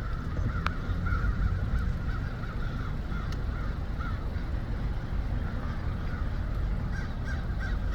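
A large flock of birds, thought to be crows, calling constantly, with many short calls overlapping, over a steady low rumble.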